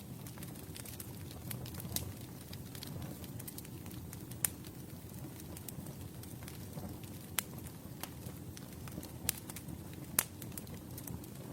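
Wood campfire burning with a steady low rumble and constant small crackles, broken by a handful of sharper, louder pops spread through the stretch.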